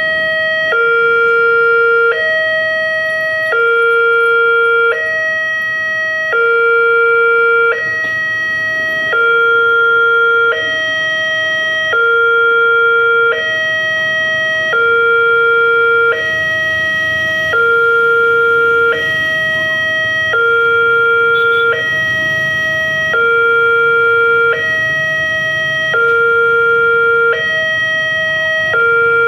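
Railway level-crossing warning alarm sounding: an electronic signal alternating between a low tone and a higher tone, each held about a second and a half, repeating evenly. It warns that the crossing barrier is closing for an approaching train.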